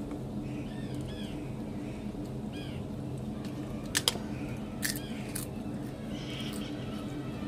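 Birds chirping outdoors in short arched calls over a steady low hum, with a few sharp clicks about four to five seconds in.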